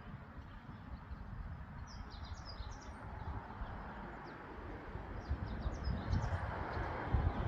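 Small birds chirping in short high calls, in two clusters, over a low rumble that grows louder in the second half.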